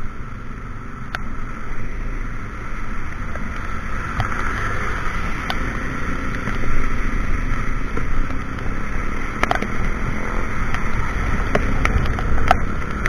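Honda Beat scooter being ridden: a steady rush of wind and road noise over the microphone, with the engine's low running underneath and a few light ticks.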